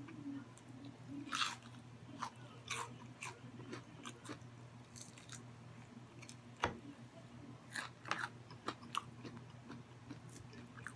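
A person chewing crispy fried food close to the microphone, with scattered crisp crunches and small mouth clicks. One sharper click comes about two-thirds of the way through.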